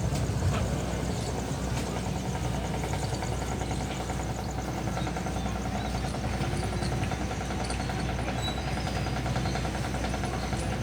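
A steady low engine-like hum that keeps up without change.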